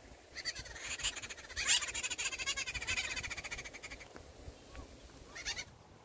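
Bird calls in harsh, rapidly pulsed, buzzy chattering, coming in bursts, the longest about two seconds, with a last short burst near the end.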